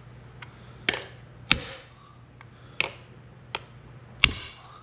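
Hammer blows on a socket set over a valve spring retainer on a small-block Chevy 350 cylinder head, knocking the valve keepers loose. There are five sharp metallic strikes at uneven intervals, and the last one, near the end, is the loudest.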